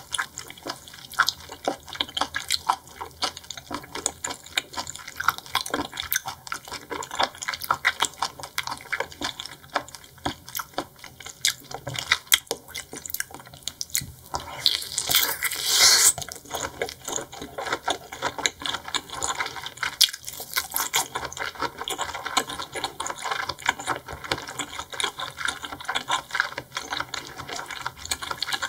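Close-miked wet chewing of seafood: a dense, continuous run of sticky clicks and smacks. A louder hissing rush lasts about a second around the middle.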